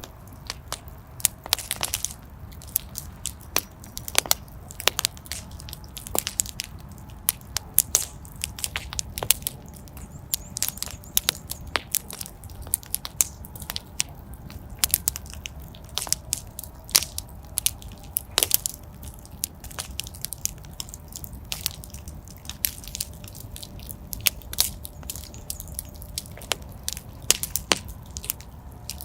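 Wood fire in a fireplace crackling, with frequent irregular sharp pops and snaps over a low steady rumble of burning.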